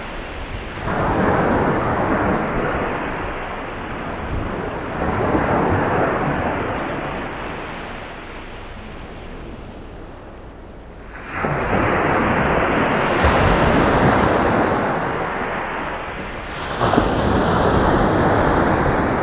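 Sea waves breaking on a sandy beach: four waves in turn, each coming in suddenly with a loud wash and fading out over a few seconds. Wind rumbles on the microphone underneath.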